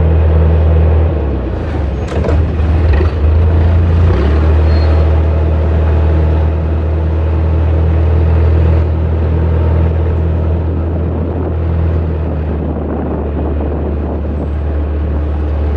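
Large engine running steadily with a deep, even drone, with a few irregular knocks about two seconds in.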